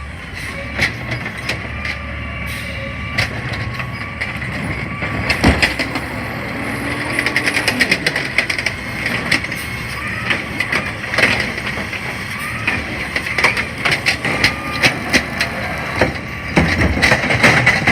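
Garbage truck working: engine rumble under a steady whine, with repeated clanks and knocks, heaviest about a third of the way in and again in the last few seconds.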